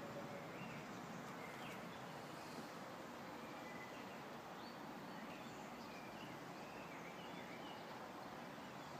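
Faint outdoor ambience: a steady hiss of background noise with scattered brief, distant bird chirps.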